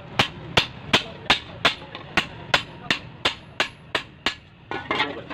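Hand hammer striking a toka fodder-chopper blade on an anvil: about a dozen steady, evenly spaced metallic blows, about three a second, as the blade is forged in repair. The blows stop a little past four seconds in.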